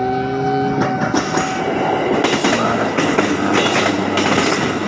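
Electric commuter train passing close by over a railway turnout, its wheels clattering loudly in rapid knocks over the switch blades and rail joints. A held tone stops about a second in.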